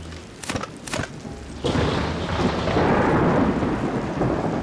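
Thunderstorm sound effect: two sharp cracks of thunder in the first second. Then, a little under two seconds in, a loud rumble and downpour of rain start suddenly and keep going.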